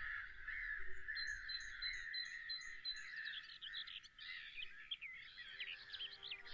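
Birds chirping and singing: a run of quick repeated high notes, about four a second, for the first few seconds, then warbling, curling calls.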